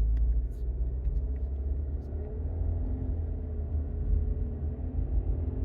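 Exhaust drone of a 2022 Subaru Outback Touring XT's turbocharged 2.4-litre flat-four, through aftermarket-fitted 2018 STI mufflers, heard inside the cabin while driving. It is a steady, deep, loud hum with road noise. The owner finds it worst from about 1200 to 1500 rpm.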